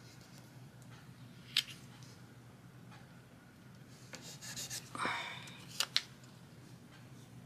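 Paper and stickers being handled on a planner page: a single sharp tap, a papery rustle about four seconds in, then two quick sharp clicks, over a faint steady hum.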